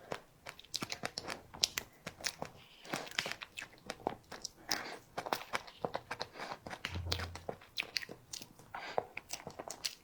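A person biting and chewing grape cake, with a rapid, irregular run of crunches and mouth clicks.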